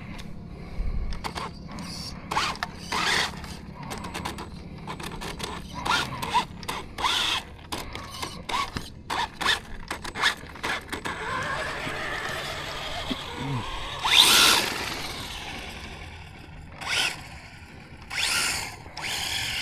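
Electric Traxxas Slash RC truck being driven, its motor whining up and down with many scattered clicks and knocks. The motor sound is loudest about fourteen seconds in.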